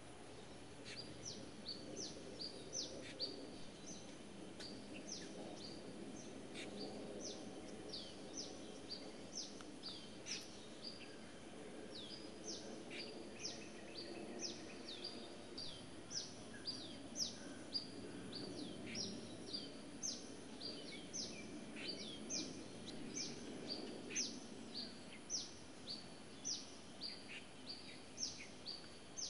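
Small birds chirping continuously: short high notes that each drop quickly in pitch, about two a second and growing denser later on, over a low murmur of background noise.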